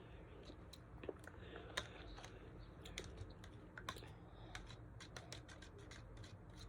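Faint, irregular small clicks and taps from a spoon and mouth while eating a jelly dessert, several a second and uneven in spacing.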